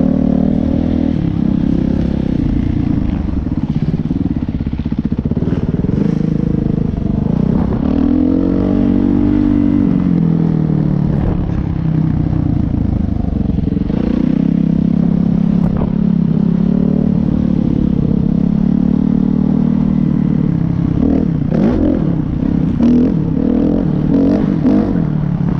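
Motocross dirt bike engine revving and easing off over and over as it is ridden, its pitch climbing and dropping with each throttle change, with some clattering knocks.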